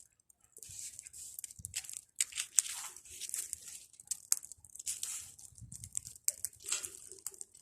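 Bonfire of pruned tree branches crackling, with irregular sharp pops and snaps over a steady hiss.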